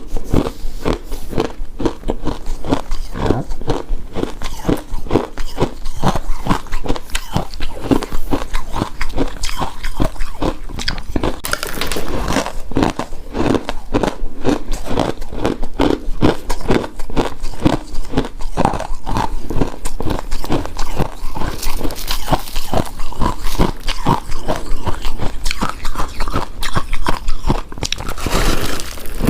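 Shaved ice being chewed and crunched in the mouth, a steady run of rapid, closely spaced crunches, several a second.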